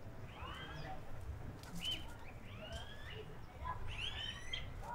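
Birds chirping and calling: many short, quick whistled notes that swoop up and down, over a low steady rumble.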